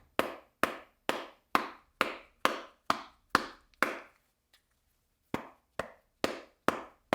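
A Samsung Galaxy A03s wrapped in a microfiber cloth is being tapped firmly and evenly, about two knocks a second. There are nine knocks, a pause of about a second, then more. The taps are meant to reseat a possibly disconnected internal ribbon cable, such as the one that powers the screen, behind a black screen.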